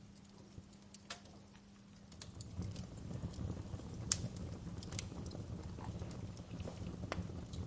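Wood fire crackling, with sharp pops scattered through it and the loudest just after the middle. A low rumble of the burning fire grows louder about two and a half seconds in.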